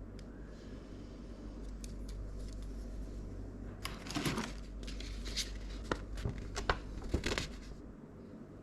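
Parts and packaging being handled during a PC build: a run of light clicks and rustles from about four seconds in until near the end, over a low steady hum.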